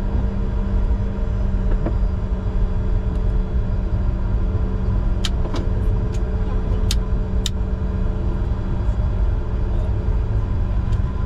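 Cockpit noise of a Bombardier Challenger 605 business jet taxiing: a steady low rumble with a constant hum, and a few sharp clicks about halfway through.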